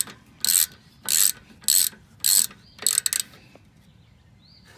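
Ratchet wrench tightening a brake caliper mounting bracket bolt: about five quick ratcheting strokes a little over half a second apart, stopping about three seconds in as the bolt is snugged up.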